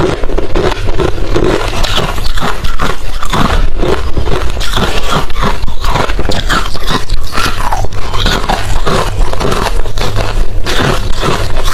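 Hard refrozen crushed ice being chewed close to the microphone: a continuous run of loud, crisp crunches, several a second.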